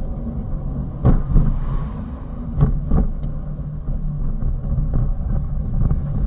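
A heavy vehicle's engine running with road rumble, heard from the driver's seat. There are a few short knocks, once about a second in and twice around three seconds in.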